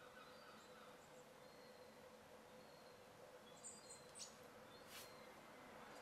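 Faint, very high chirps from a small bird, a few short calls, over quiet outdoor background noise, with two faint clicks near the end.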